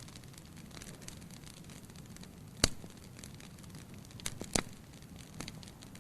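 Firewood burning in a fireplace: a steady low hiss with scattered crackles and pops, the sharpest pop about two and a half seconds in and a couple more just past the middle.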